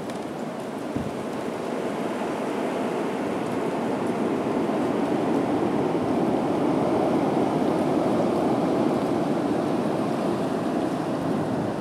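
Blizzard wind blowing hard in a steady rushing noise that swells gradually louder, with a soft bump about a second in.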